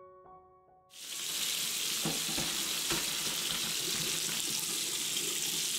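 Boiled cauliflower and its hot cooking water poured into a metal colander in a sink: a steady rushing hiss of draining water that starts about a second in, with a couple of light knocks as the florets land. Before it, a few faint background music notes.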